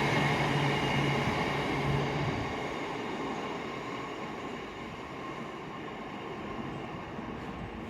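Class 66 diesel locomotive and its train running past, a steady low engine hum that drops out about two and a half seconds in, then the rumble of the train fading away as it recedes.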